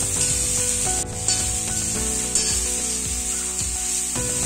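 Sliced okra sizzling in hot oil in a kadai while a metal spatula stirs and scrapes it. Background music with held notes plays underneath.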